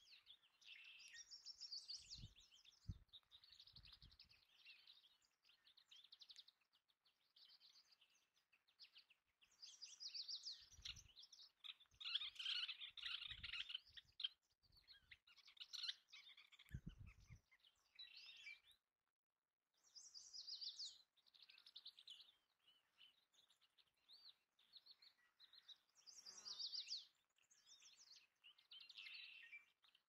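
Faint birdsong: many short high chirps and trills, several calls overlapping, with a few soft low bumps here and there.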